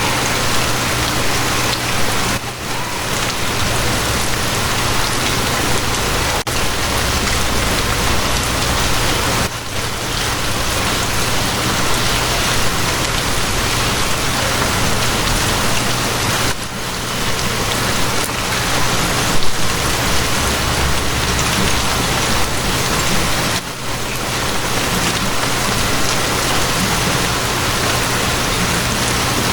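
Steady rain falling, an even dense hiss, over a low steady hum. The rain dips briefly about every seven seconds.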